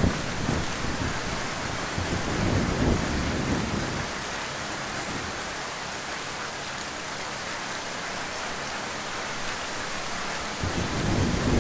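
Heavy rain falling steadily. Low rumbles of thunder fade out over the first few seconds and return near the end.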